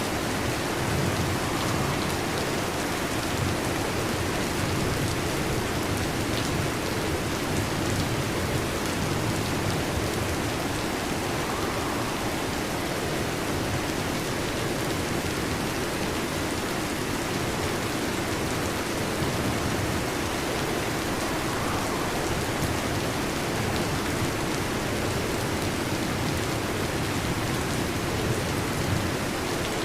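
Steady heavy rain, an even unbroken hiss with a fuller low undertone.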